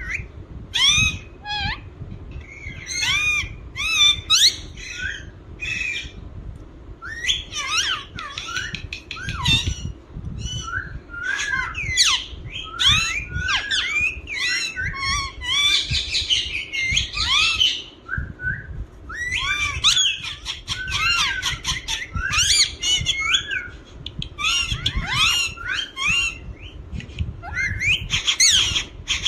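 Indian ringneck parakeet chirping and squawking in quick runs of short high calls that glide up and down, broken by brief pauses.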